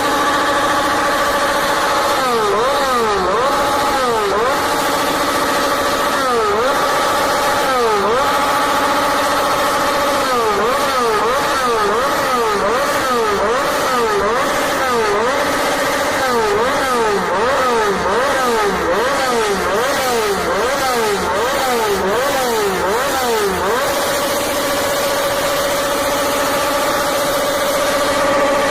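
Sport motorcycle engine held at high revs, its pitch dipping and climbing back again and again, about once a second, before settling back to a steady high note near the end.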